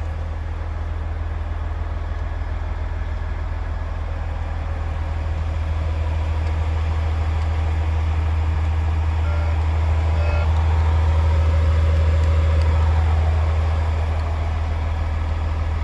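Volvo D13C 460 hp straight-six diesel of a 2011 Volvo FH tractor unit idling, a steady deep hum that swells slightly about ten seconds in and eases back again.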